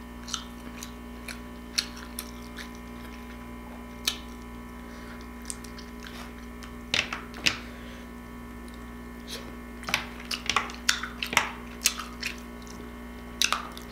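Close-up eating sounds: a person chewing crab meat dipped in seafood-boil sauce, with scattered lip smacks and mouth clicks, over a steady low hum.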